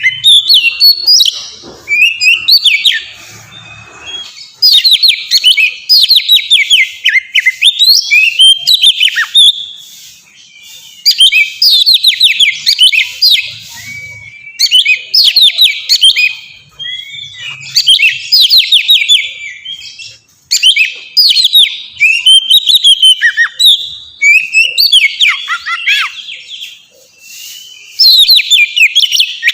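Oriental magpie-robin (kacer) singing a loose, melodious song in the open 'ngeplong' style. Its phrases are runs of quick falling notes, each a second or two long, with short pauses between them.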